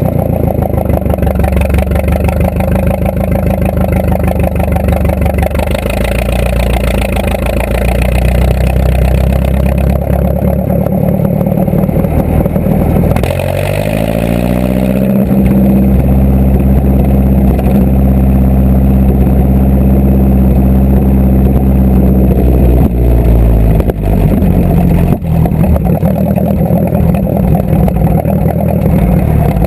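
Tractor engine running steadily; about halfway through its pitch rises as it revs up, then holds at the higher speed.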